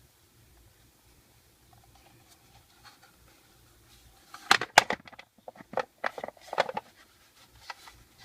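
A quick cluster of sharp clicks and knocks about halfway in, with fainter taps before and after.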